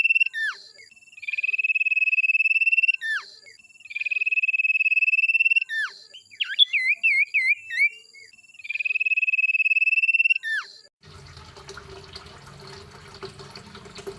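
Songbird song for bird training (masteran): a long, even trill held at one pitch for about a second and a half and ending in a sharp falling note, repeated four times, with a burst of varied, looping warbles in the middle. About eleven seconds in, the song cuts off suddenly and gives way to a quieter, noisy background with a low hum.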